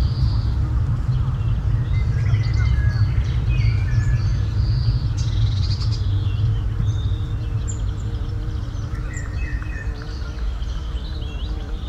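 Small birds chirping and calling, with many short, high notes scattered throughout, over a steady low rumble.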